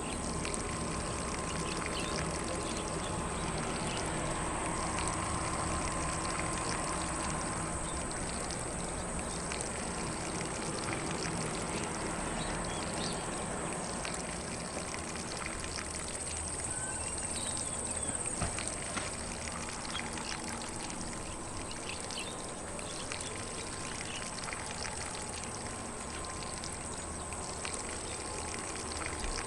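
Lawn sprinkler spraying water across grass: a steady, even spray, with faint birdsong in the background.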